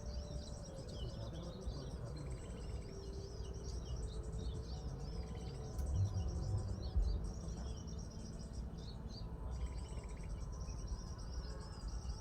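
Birds calling with rapid, repeated high arched chirps over a steady low rumble, with a couple of brief bumps about six and seven seconds in.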